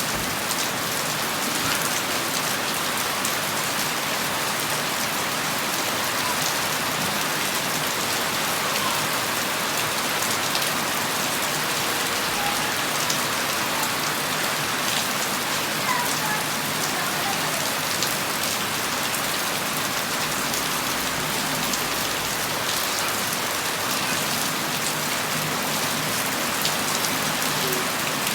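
Steady rain falling and pattering on surfaces, an even hiss with many separate drop impacts. A few faint, brief chirps can be heard around the middle.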